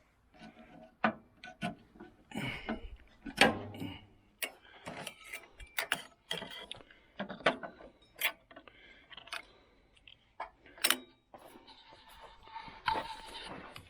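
Irregular metal clinks, clicks and knocks of hand tools working on a riding lawn mower while its cutting deck is being removed, with a rasping scrape lasting about two seconds near the end.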